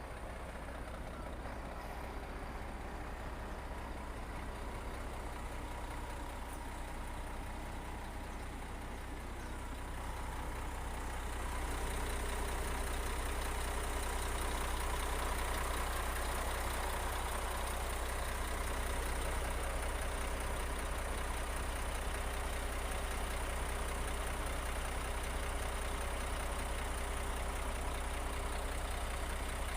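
Diesel engine of heavy earthmoving machinery running steadily, growing louder about ten seconds in.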